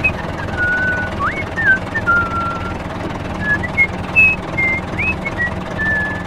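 A steady low engine hum with a slow whistled tune over it: short high notes, some sliding up or down.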